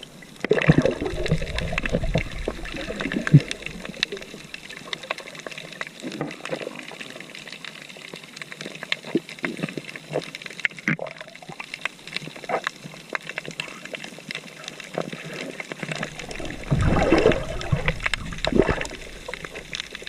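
Water sloshing and trickling, with many small clicks and knocks and some dull bumps about a second in and again near the end.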